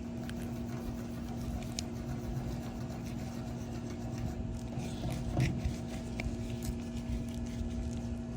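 Light scraping and rubbing with scattered clicks, over a steady hum.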